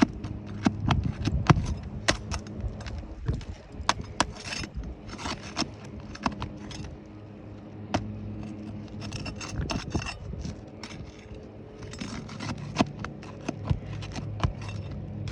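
Irregular scraping, rubbing and sharp clicks of a tool working against asphalt shingles as a sealed shingle is pried loose. A steady low hum runs underneath.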